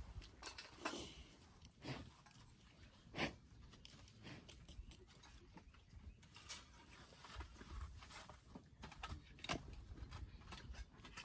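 Wood campfire crackling: faint, irregular small pops and clicks, a few sharper ones standing out.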